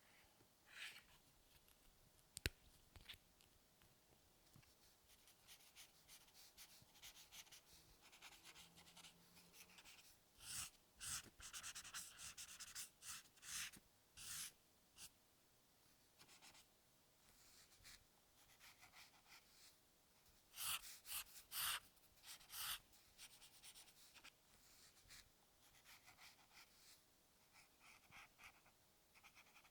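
Drawing strokes on paper: soft scratching in short strokes, with louder runs of quick strokes about a third of the way in and again past two-thirds. A single sharp click comes early on.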